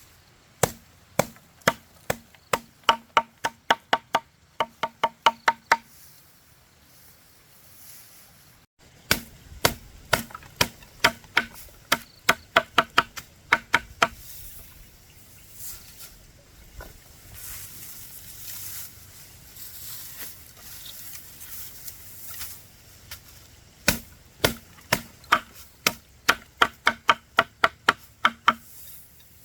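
Rapid chopping with a knife or cleaver on a wooden board: three runs of quick, even strokes, about three or four a second, each with a short ring.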